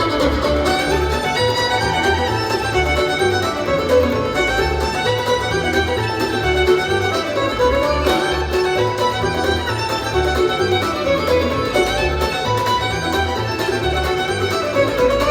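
Instrumental country or bluegrass music: a fiddle plays the lead over guitar and a steady, pulsing bass line.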